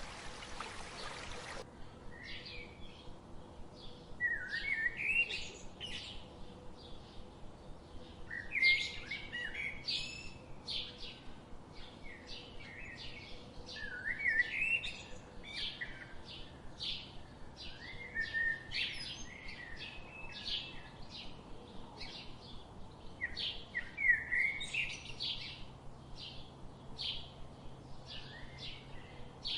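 Birds singing and chirping in many short, repeated phrases. A steady rushing noise at the start cuts off abruptly about two seconds in.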